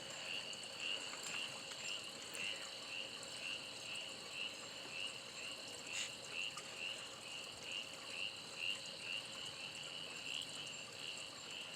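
Faint night chorus of calling insects and frogs: a steady high trill with a high chirp repeating about two to three times a second.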